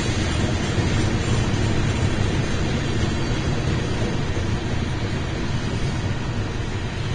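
BNSF freight train's cars rolling past on the rails, a steady deep rumble of wheels on track.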